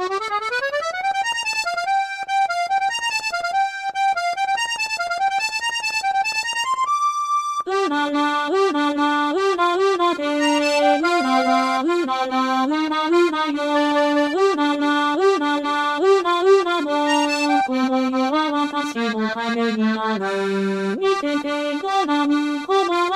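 Sampled accordion playing an instrumental introduction, with no singing. It opens with a quick rising run and fast repeated notes, holds one high note about seven seconds in, then plays the tune over a lower accompanying line.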